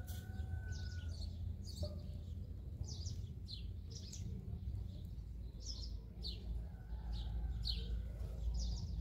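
Small birds chirping: a dozen or so short, high chirps at irregular intervals, over a low steady rumble.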